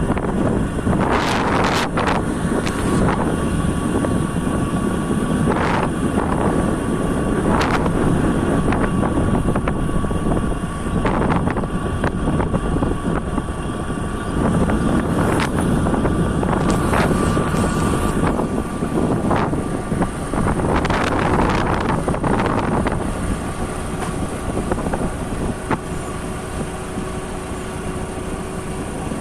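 Motorcycle riding along a road, its engine running steadily under heavy wind rush on the microphone, with scattered short knocks and rattles.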